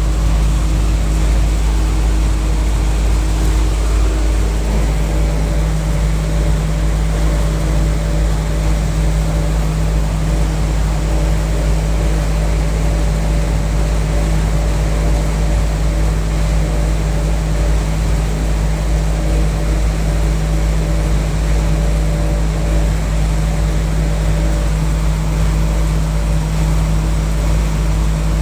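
Package air-conditioning unit running: a loud, steady machine hum with a deep low drone and a constant tone over it.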